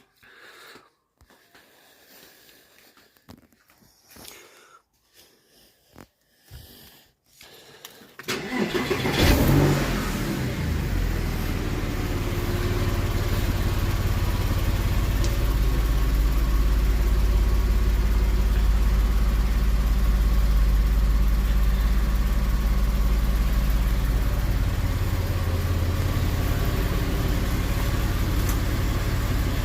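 Porsche 996 Carrera 4S flat-six with a Dansk Supersport exhaust cold-starting: after a few faint clicks, the starter cranks and the engine catches about eight seconds in, flares briefly, then settles into a steady fast cold idle.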